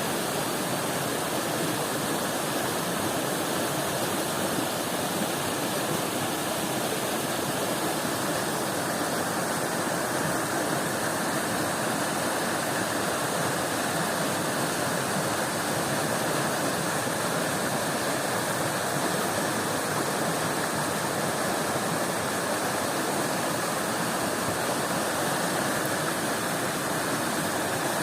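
Stream water running over rocks: a steady, even rushing.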